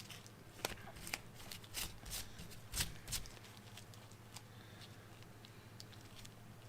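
Small scrapes and clicks of a tool working two-part metal filler into grooves on a hydraulic cylinder piston rod. There is a quick cluster of them in the first three seconds or so, then only a few faint ticks over a steady low hum.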